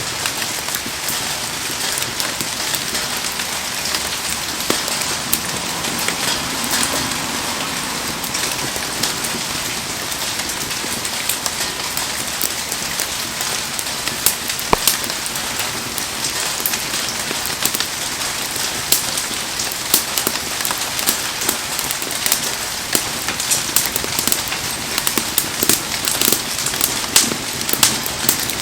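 Heavy rain falling steadily, with sharp crackles and pops from a burning wood fire, the pops coming more often near the end.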